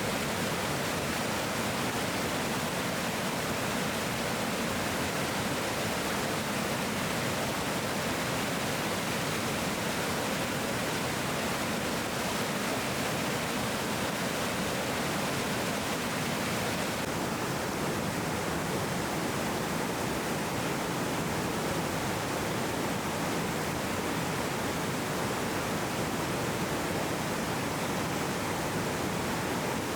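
Waterfall rushing steadily, an even unbroken roar of falling water. Its hiss turns slightly duller just over halfway through.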